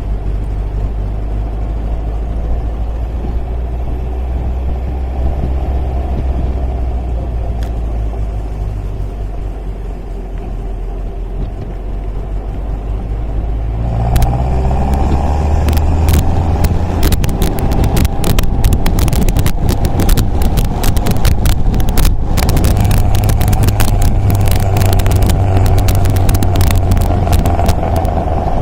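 MGA sports car's engine running on the road, a steady low drone. About halfway through it gets louder, with a dense crackle over it until the end.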